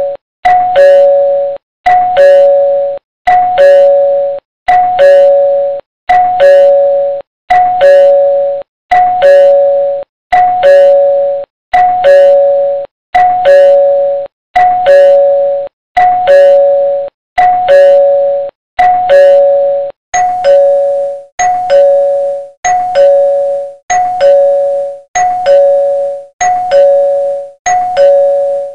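Two-note doorbell chime, a higher note then a lower one (ding-dong), ringing over and over about once a second.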